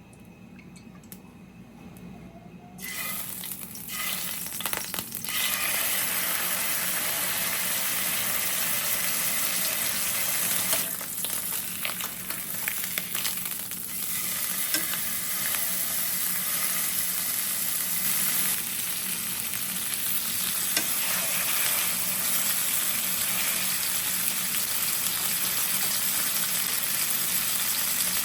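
Food frying in a hot pan: after a quiet start, a loud sizzle begins about three seconds in and keeps crackling steadily.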